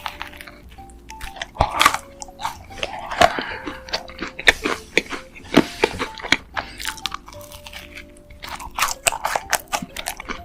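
Close-miked biting and chewing of a macaron, its crisp shell crunching in many sharp, irregular clicks, over soft background music of held notes.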